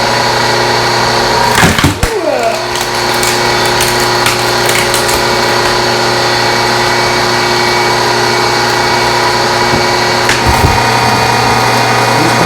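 Hydraulic log splitter running, its motor and pump humming steadily while the ram pushes into a log. There is a sudden loud crack about two seconds in, and the pump's note changes about ten seconds in.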